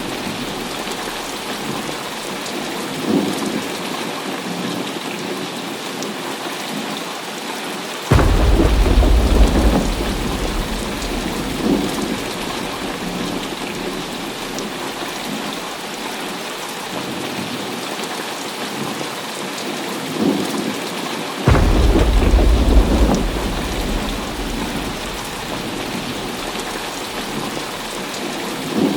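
Heavy rain falling steadily, with two sudden claps of thunder, about eight seconds in and again about twenty-one seconds in. Each clap rolls on as a deep rumble for a couple of seconds before dying back under the rain.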